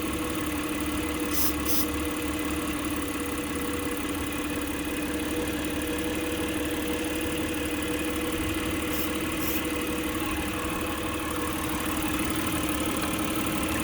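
Mitsubishi Pajero V6 engine idling steadily while short hisses of spray are aimed at its intake manifold to hunt for a vacuum leak; at this spot the idle stays even. The hisses come as two quick pairs, about a second and a half in and again about nine seconds in.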